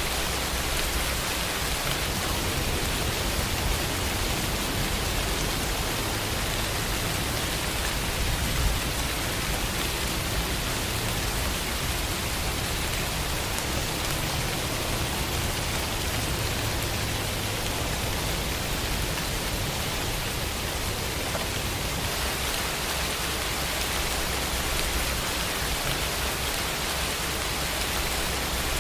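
Steady rain falling on surfaces, an even hiss with a low rumble underneath.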